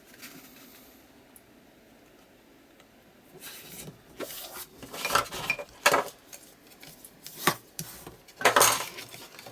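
Small craft tools and supplies knocking and clinking as they are handled and set down on a work table. After a few quiet seconds comes an uneven run of sharp knocks and clicks, with several loud ones in the second half.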